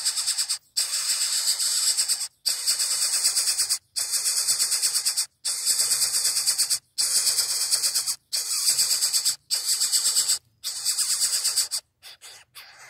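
Coucal chick giving harsh, hissing begging calls in repeated bursts of about a second each with short breaks between, about nine in a row, turning fainter and choppier near the end.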